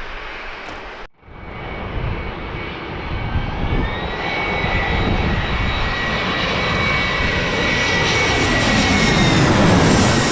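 Airbus A321 jet airliner on short final approach. After a brief dropout about a second in, its engine noise builds, a steady high whine over a rumble, and grows louder as it comes close.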